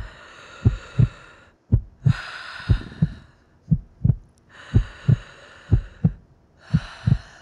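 A heartbeat, a low double thump about once a second, with slow drawn breaths rushing in and out between the beats.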